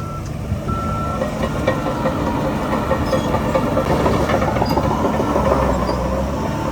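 Heavy earthmoving machinery working: a diesel engine running with a steady metallic clanking rattle, typical of a crawler bulldozer's tracks. A reversing alarm beeps twice in the first second.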